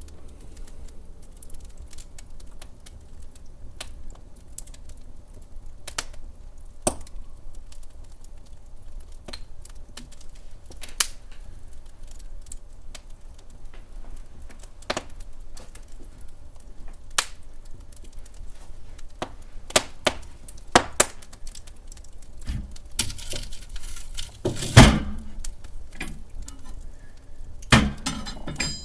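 Wood fire crackling in a fireplace: scattered sharp pops and snaps over a low rumble, with a denser, louder flurry of crackling near the end.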